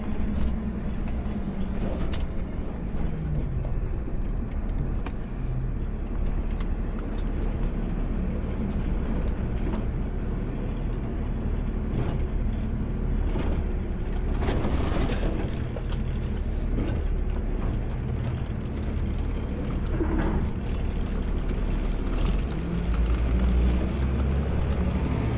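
Automated sideload garbage truck running, a steady low engine rumble heard from inside the cab, with a few short noises partway through.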